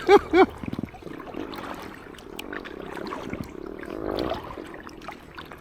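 Paddling sounds on a river: water dripping and splashing around an inflatable kayak, with scattered small ticks and faint distant voices in the middle.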